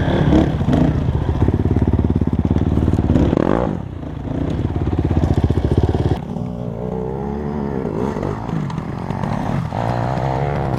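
Dirt bike engine running under throttle while riding a trail, the revs rising and falling. About six seconds in, the engine note drops and carries on quieter, its pitch wavering up and down.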